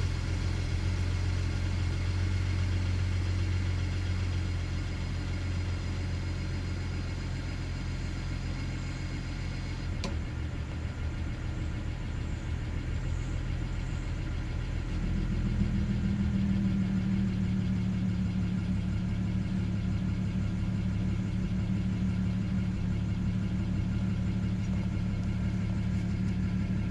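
BMW E90 335i's turbocharged inline-six idling after a cold start, the idle hunting: a click about ten seconds in, then about five seconds later the engine note steps up and holds at a higher idle. The owner puts the unsteady idle down to bad fuel injectors on cylinders 1 and 2.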